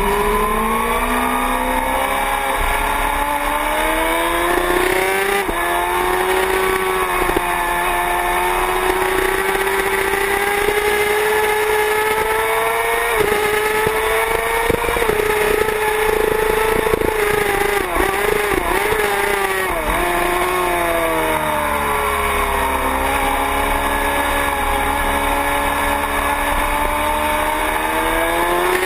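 Sport motorcycle engine heard from the bike itself at track speed, its pitch rising and falling again and again as the rider accelerates, shifts and slows for corners. The note wavers and dips briefly about eighteen seconds in.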